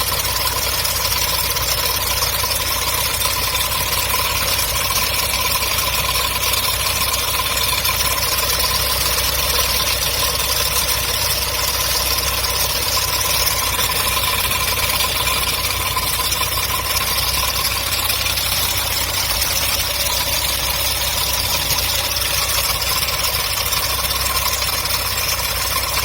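MGB's B-series four-cylinder engine idling steadily, with a steady whine running through it. This is the strange engine noise the owner is asking about; the water pump is new.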